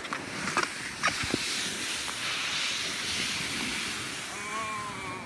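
Sled sliding over snow: a steady hiss lasting about five seconds, with a few knocks at the start. A child's voice calls out near the end.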